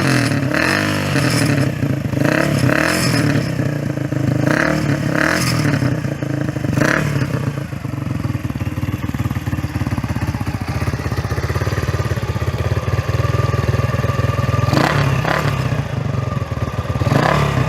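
Custom cafe racer's Bajaj Caliber single-cylinder engine running steadily at idle, with several short blips of the throttle in the first seven seconds and a couple more near the end.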